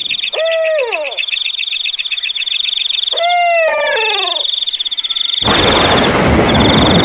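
Owl hoots, each a short call falling in pitch: one about half a second in, then two overlapping calls a few seconds later. Behind them runs a steady, fast-pulsing, high-pitched chirring of night insects. About five seconds in, a loud rushing noise breaks in suddenly and drowns out the chirring.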